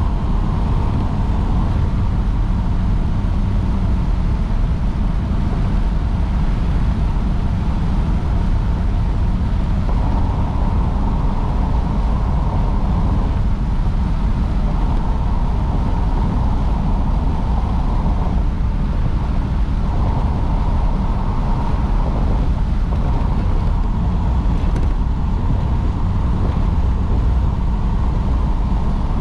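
A car being driven at a steady pace: an even, continuous low rumble of engine and road noise.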